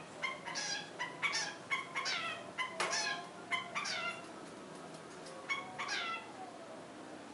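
Long-tailed shrike (cendet) calling: a quick series of short calls, each sliding down in pitch. The calls break off about four seconds in and two more come near six seconds.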